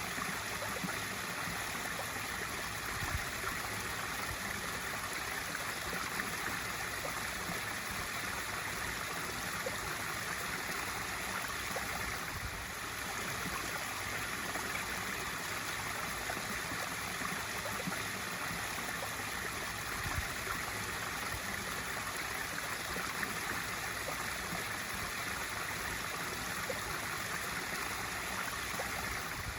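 Swimming pool waterfall feature: water spilling steadily into the pool with a constant splashing rush.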